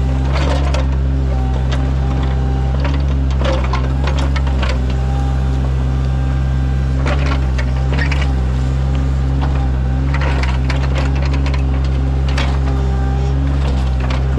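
Sany mini excavator's diesel engine running steadily while digging a ditch. Clusters of clanks and scrapes come every few seconds as the bucket works.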